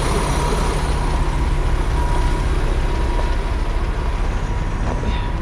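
Semi truck's diesel engine idling steadily, a low rumble with a faint steady whine above it.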